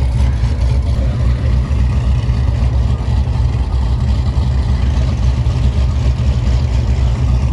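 Car engine running steadily with a loud low rumble and no sharp revving.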